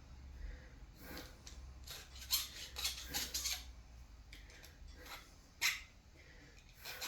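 Scattered clinks, taps and scrapes of small metal and plastic parts and tools being handled on a workbench, with a few sharper knocks over a low steady hum.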